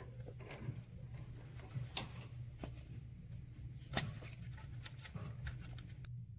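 Light clicks and rubbing as the distributor on a Honda F22B1 engine is turned by hand in its mount to line up the ignition timing marks, with two sharper clicks about two and four seconds in. A steady low hum runs underneath, and the handling sounds stop shortly before the end.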